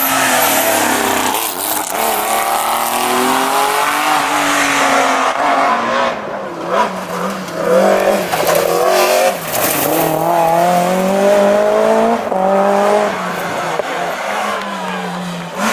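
Rally car engine at full throttle, climbing through the gears: its pitch rises and drops back at each of several upshifts, with tyre noise.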